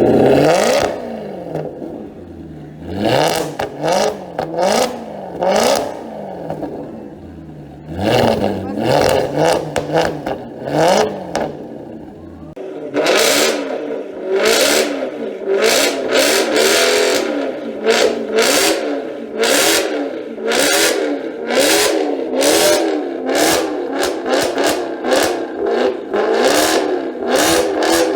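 Maserati Quattroporte engine being revved through a loud exhaust: a few separate revs, then quick throttle blips about once a second, each a fast rise and fall in pitch.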